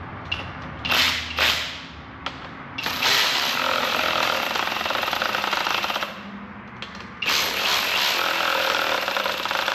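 Cordless power tool running down the turbocharger mounting bolts on a Ford 3.5 EcoBoost engine, snugging them only until they touch. Two short spurts about a second in, then two longer runs of about three seconds each.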